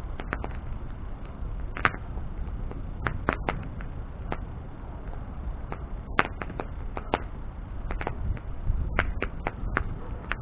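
Wood bonfire burning with a steady low rumble and irregular sharp crackles and pops as the wood splits and throws sparks.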